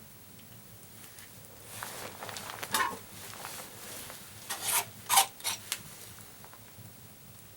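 Short rasping scrapes in two groups, about two seconds in and again about five seconds in, the loudest stroke in the second group.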